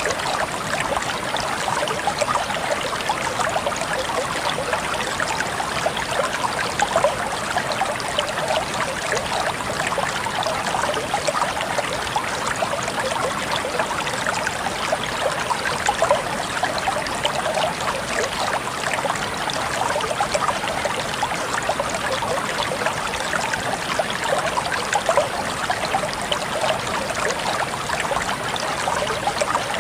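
Water flowing over stones in a shallow stream, a steady babble with many small splashes and trickles.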